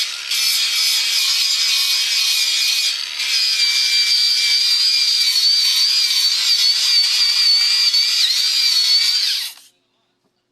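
Small high-speed electric power tool working wood: a steady high whine over a hiss, dipping briefly twice, then cutting off suddenly near the end.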